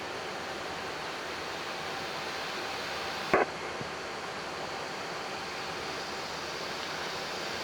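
Steady rushing noise on a Boeing 777-300ER flight deck in the climb after takeoff, with one short sharp click about three seconds in.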